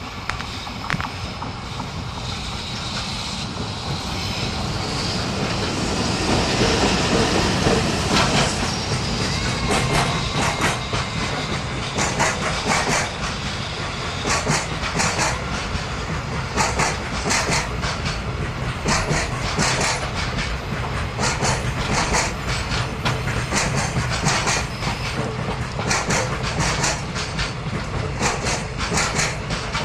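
A freight train passes close by. It grows louder to a peak about seven seconds in, then the wagons' wheels click over the rail joints in a steady clickety-clack.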